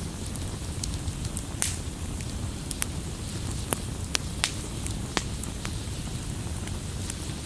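Wood logs burning in a fireplace: a steady low roar of flames with irregular sharp crackles and pops from the burning wood, a few of them louder than the rest.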